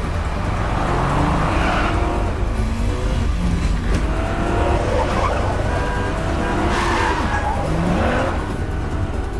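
Cars driven hard, engines revving with pitch rising about a second in and again near the end, mixed with tyre noise and a background music score.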